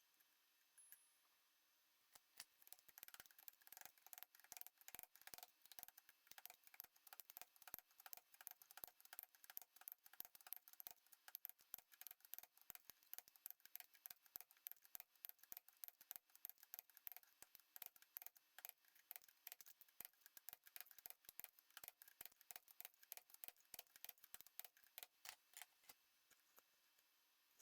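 Faint, rapid, uneven clicking, many small clicks a second, that starts about two seconds in and stops near the end. It comes from hand work on a milling machine's spindle quill as it is reassembled.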